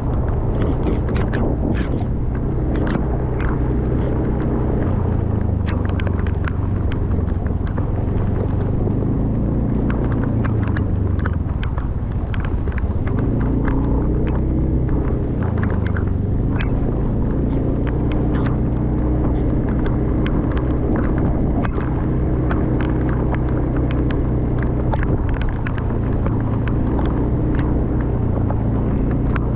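A loud low drone that shifts pitch now and then, over a constant scatter of sharp taps, in the manner of raindrops striking close by in a rainstorm.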